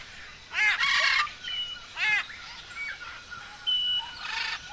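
Wild birds calling: loud, harsh calls with arched rise-and-fall notes about half a second in and again about two seconds in, a short clear whistle, then another harsh call near the end.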